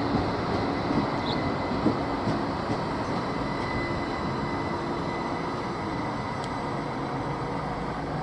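ÖBB electric multiple unit running past on the track and drawing away: a steady rumble of wheels on rail, with a few sharp knocks in the first two seconds and the sound easing slightly as the train recedes.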